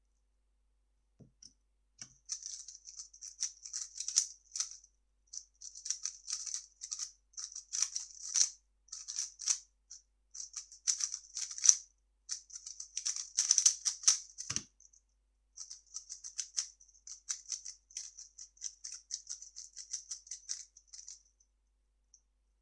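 A 3x3 speed cube being turned fast: rapid runs of plastic layer turns clicking and rattling, in bursts of a few seconds broken by short pauses, with a soft thump about two-thirds of the way through.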